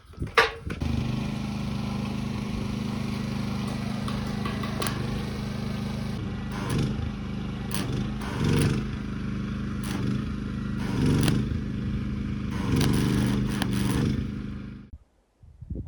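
A small engine running steadily, with scrapes and clanks over it, cutting off near the end.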